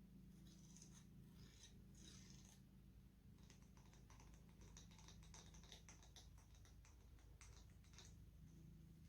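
Faint crackling rustle of hair being brushed and handled: a few soft strokes at first, then a denser run of tiny crackles for several seconds.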